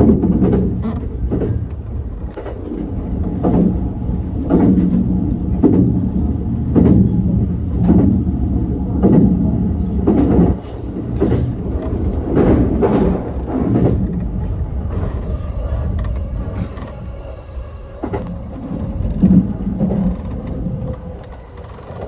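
E235-series commuter train running on the Yokosuka Line, its wheels knocking over rail joints in a regular beat about once a second. The beats space out and the running noise drops away near the end as the train slows.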